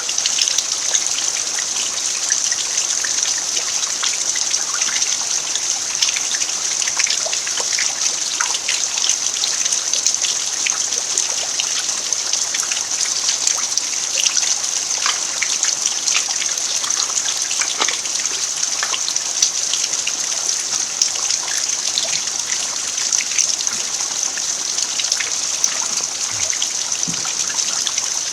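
Steady rain falling on a dirt farmyard: an even hiss with many separate drops striking through it.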